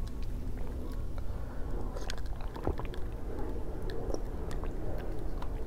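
Close-miked chewing of a mouthful of braised pork hock, with wet, squishy mouth sounds and small clicks. Near the end she takes a sip from a glass of ice water.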